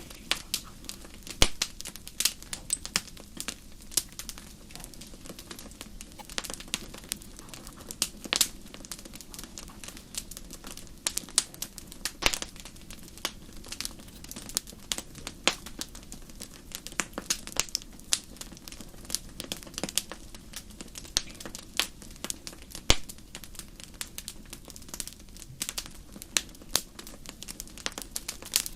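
Wood fire crackling: irregular sharp pops and snaps, several a second and of varying loudness, over a low steady rush.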